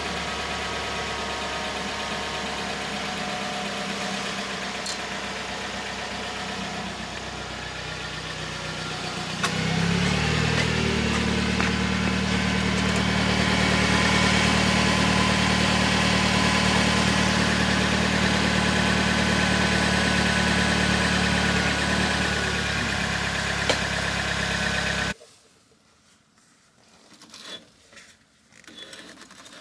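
Car engine running steadily. About nine seconds in it rises in pitch and gets louder, holds there, then cuts off abruptly at about 25 seconds, leaving a few faint clicks.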